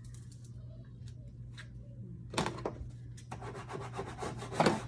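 Rubbing and scratching handling noise: quiet at first, then dense scratchy rubbing from about two seconds in, with a louder scrape near the end. A steady low hum runs underneath.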